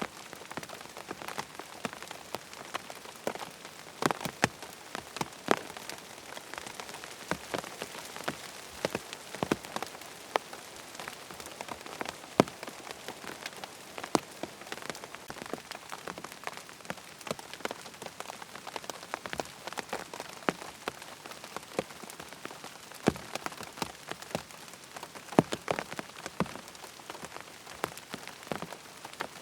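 Rain falling on a tent: a steady patter across the fabric, with many separate heavier drops landing as sharp taps at no regular rhythm.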